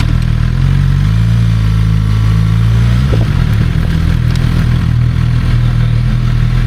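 Motorcycle engine running steadily near idle, its pitch rising slightly about a second in and settling back down about three seconds in.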